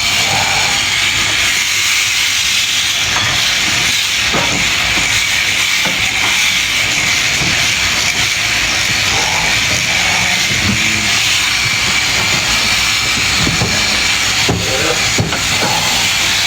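Electric sheep shears running steadily through wool, a continuous hiss with a steady high whine and a few short knocks.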